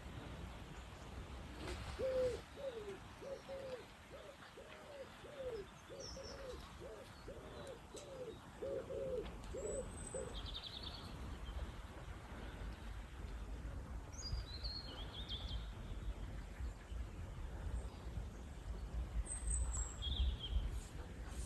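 A bird calling a series of about a dozen low, evenly paced hooting notes, roughly one and a half a second, which then stop; short high chirps from other small birds come through now and then over a low background rumble.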